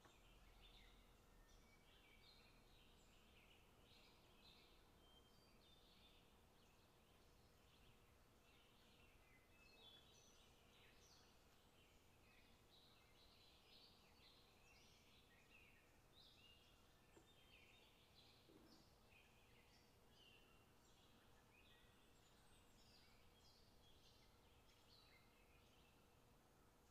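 Faint birdsong: many short, scattered chirps and tweets from small birds over a low, steady hiss.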